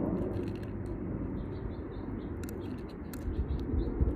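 Small birds chirping in short repeated notes, over wind rumbling on the microphone, with a few light clicks or rustles about two and a half and three seconds in.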